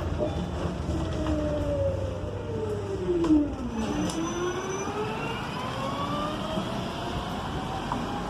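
Proterra Catalyst electric bus's UQM traction motor whining, its pitch falling as the bus slows and then rising steadily as it pulls away again, over low road rumble. A brief loud knock comes about three seconds in, near the low point of the whine.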